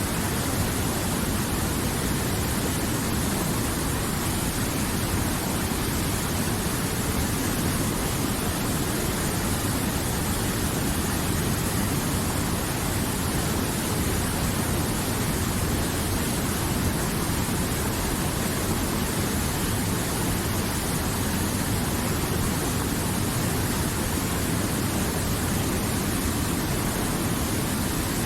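River water flowing and rushing, a steady even sound with no breaks.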